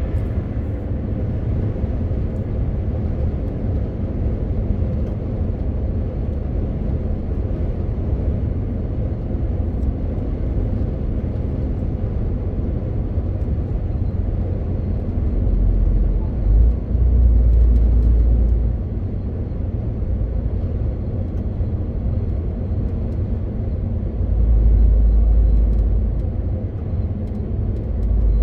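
MAN TGX 18.520 truck's straight-six diesel running steadily on the move, with road and tyre noise. The low rumble swells twice, a little past the middle and again near the end.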